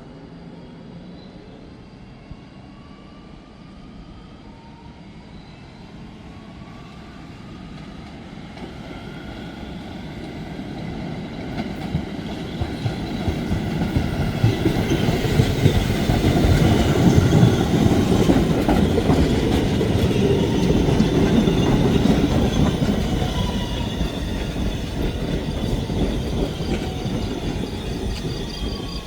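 Staten Island Railway train approaching and passing, its rumble growing steadily louder to a peak a little past the middle, with high wheel squeal throughout.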